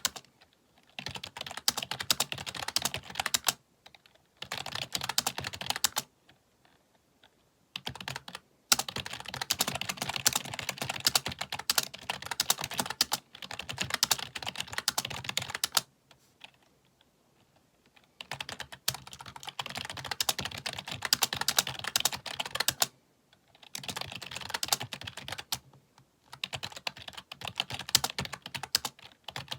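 Fast typing on a computer keyboard: rapid clattering key clicks in runs of a few seconds, broken by short pauses.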